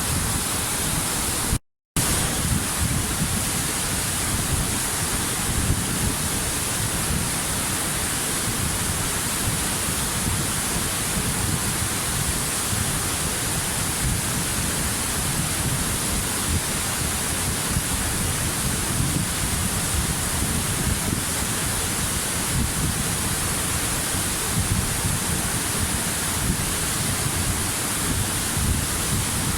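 Waterfall, the steady rush of falling water with a deep rumble underneath and a bright hiss on top. A split-second dropout to silence cuts it about two seconds in.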